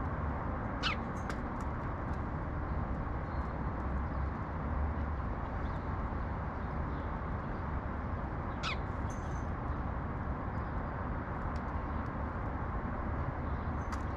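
Steady low rumble of city traffic, with a short falling bird call about a second in and again near nine seconds, and a few faint high chirps.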